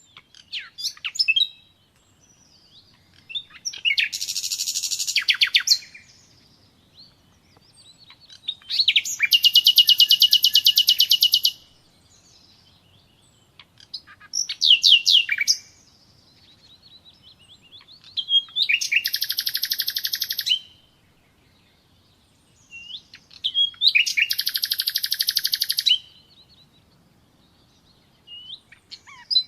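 A songbird singing the same phrase over and over: a few quick sweeping notes, then a fast, high trill lasting about two seconds, repeated roughly every four to five seconds.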